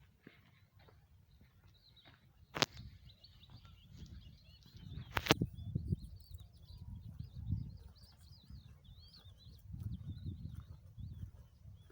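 Small birds chirping and twittering, with two sharp clicks, one about two and a half seconds in and a louder one about five seconds in, over an uneven low rumble.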